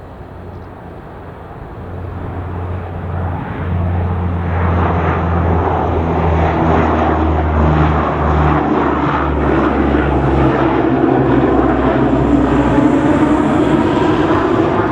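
Large Antonov cargo aircraft's engines growing louder as it approaches. The sound builds over the first few seconds, then holds loud and steady as a low drone under a rushing hiss that grows brighter near the end.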